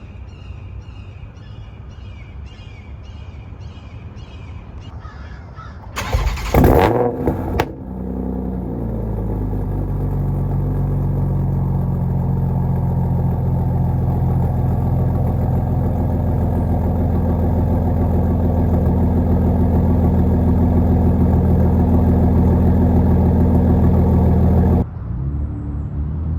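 Toyota Supra MKV's inline-six, fitted with a big KLM 6466 turbo with T51R mod, a catless downpipe and an AWE track cat-back exhaust, starting about six seconds in with a loud, brief flare. It then settles into a steady idle that cuts off abruptly near the end.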